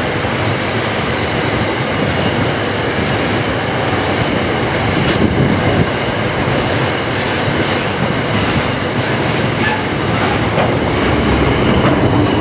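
Freight wagons of a steel train, flat wagons loaded with steel, rolling past at speed with a steady loud noise of steel wheels on rail and a few short high-pitched metallic sounds from the running gear.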